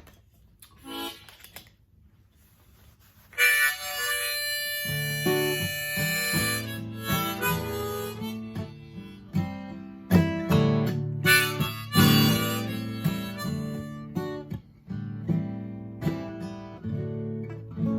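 Harmonica and acoustic guitar played together: the harmonica comes in about three seconds in after a few soft clicks, and steady strummed guitar chords join a second or so later.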